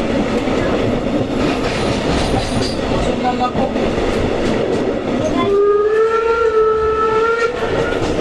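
A train running, with a steady rumble and wheel clatter on the rails. Near the end a train horn sounds once for about two seconds, its pitch rising slightly.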